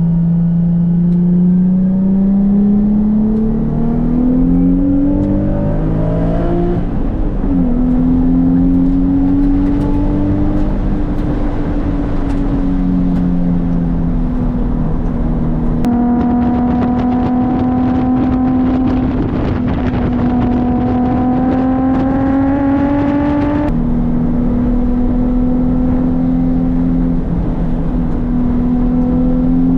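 Nissan 350Z's 3.5-litre V6 through an ISR Performance aftermarket exhaust, driving: revs climb through a gear, drop sharply at an upshift about seven seconds in, then hold at a steady cruise with gentle rises. The sound changes abruptly about sixteen and twenty-four seconds in.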